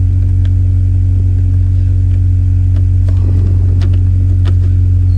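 Honda Civic's four-cylinder engine idling steadily, a loud even hum with no change in pitch.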